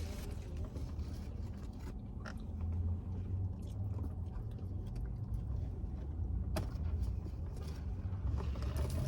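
Steady low road rumble inside a moving car's cabin, with a few faint clicks about two seconds and six and a half seconds in.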